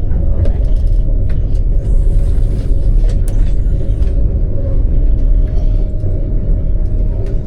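Passenger train running, heard from inside its cabin: a steady, loud low rumble with a faint constant hum and a few light clicks.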